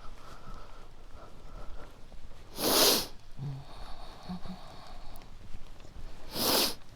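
Two short, loud blasts of breath close to the microphone, each under half a second and about three and a half seconds apart, like a person sneezing or huffing out a hard breath.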